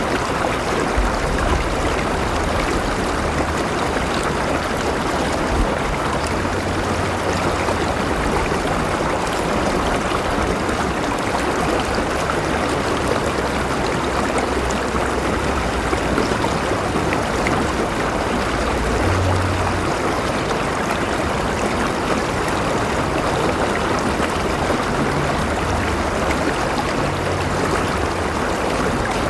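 A river flowing steadily, its water rushing and splashing continuously at an even level.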